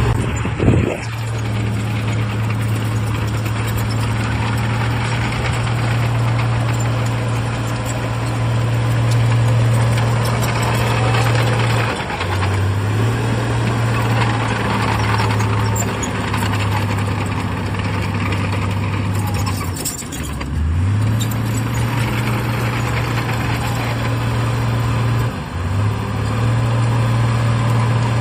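Heavy diesel engine of earthmoving machinery running steadily under work, its note sagging briefly three times (about 12, 20 and 25 seconds in) as it takes load and then recovering. A sharp knock of metal or rock comes just under a second in.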